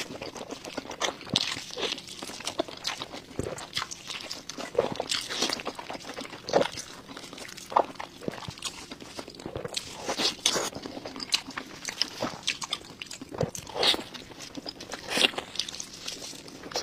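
A person biting and chewing crunchy food close to the microphone: irregular, rapid crunching and crackling.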